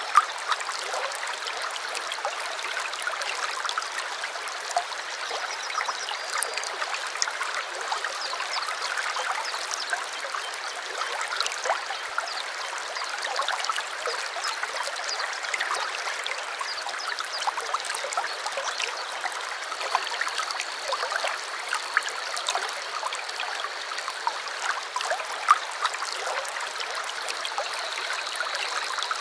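Small stream running over stones: a steady babble of water with many small splashes and gurgles. A faint, thin, high steady tone joins it about two-thirds of the way in.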